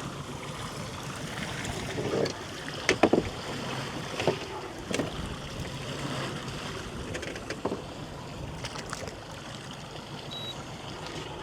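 Wind and sea water around a small fishing boat, a steady rushing, with a few sharp knocks in the first half.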